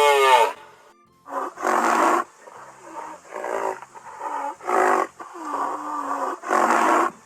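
A big cat roaring in a series of about six rough, grunting bursts, roughly one a second.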